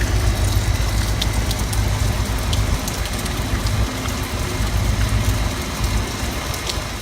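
Heavy rain pattering down with many sharp drop hits, while gusty wind rumbles on the microphone.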